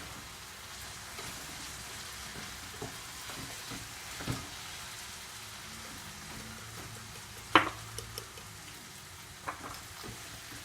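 Food frying in a pan, sizzling steadily, with small utensil scrapes and taps and one sharp clink about seven and a half seconds in.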